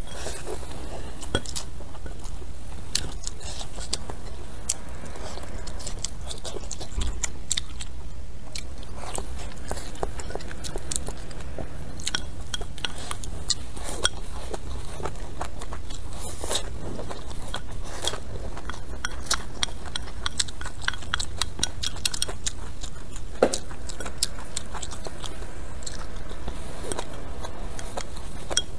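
Close-miked chewing and biting of hotpot food, with scattered small clicks of chopsticks on a ceramic bowl, over a low steady hum.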